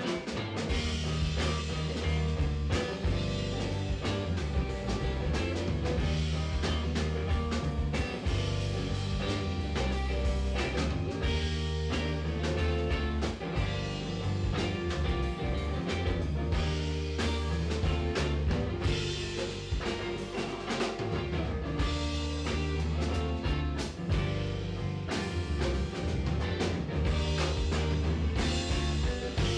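Live band playing an instrumental passage of a soul-jazz tune: electric bass holding deep notes under a drum kit and guitar, with steady drum hits throughout.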